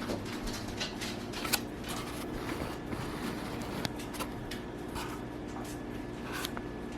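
Scattered light clicks and rustles of sliced onions and peppers being handled and dropped onto a pizza crust, over a steady low hum.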